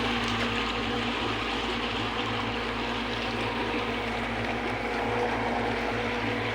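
Speedboat under way: a steady engine drone with the continuous rush of water.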